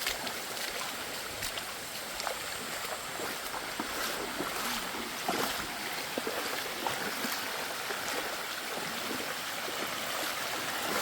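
Shallow water running steadily over smooth rock, a continuous rushing hiss, with a few faint clicks and knocks scattered through it.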